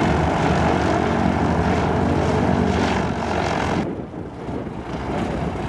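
Propeller aircraft engine running loud and steady, cutting off suddenly about two-thirds of the way through to a quieter, duller background.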